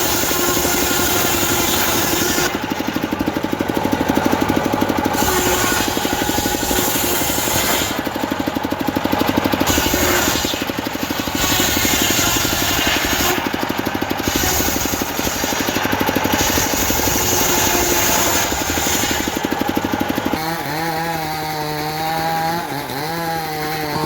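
Diesel-driven homemade circular saw ripping teak: the blade's loud cutting noise over the engine's fast, even beat, changing in tone every few seconds as the cut goes on. Near the end the cutting noise stops and a steady pitched hum is left.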